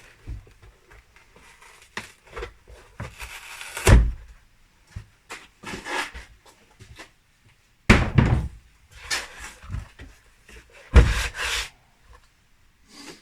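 Hand work on a car door card: irregular scraping and rustling, with three heavy thumps about four, eight and eleven seconds in, the first the loudest.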